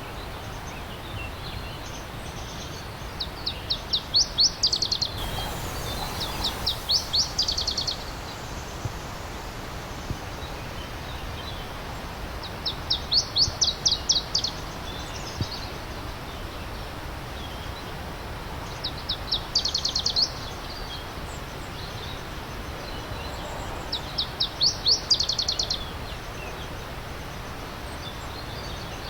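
A songbird singing a short song of rapid, evenly spaced high notes, five times at intervals of a few seconds, over the steady rushing hiss of a stream.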